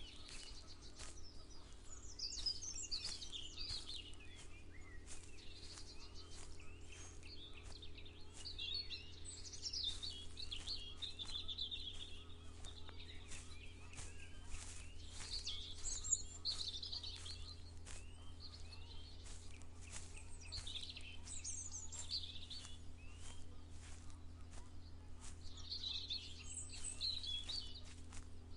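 Songbirds singing outdoors in repeated bursts of chirps and warbles, with many short ticks and a steady low hum underneath.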